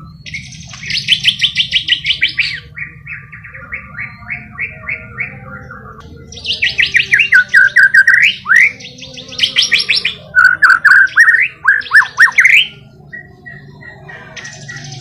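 White-rumped shama (murai batu) singing: loud, fast phrases of rapidly repeated notes and slurred whistles, with short pauses between phrases.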